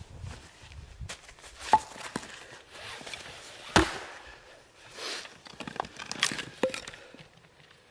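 Firewood being chopped: two sharp wooden strikes about two seconds apart, the second the loudest, with lighter knocks and rustling in between.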